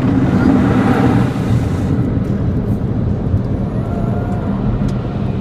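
Automatic car wash machinery running, heard from inside the car: a steady loud rumble with a hissing rush that is strongest for the first couple of seconds, then eases.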